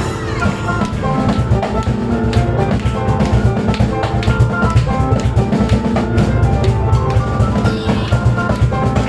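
Live instrumental performance: piano playing a fast, busy line over a drum kit and cajon, with steady drum hits throughout.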